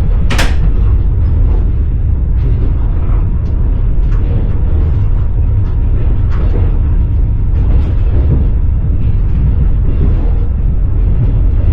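Passenger train running on rails: a steady low rumble with irregular knocks and clicks from the wheels on the track, a sharp click about half a second in.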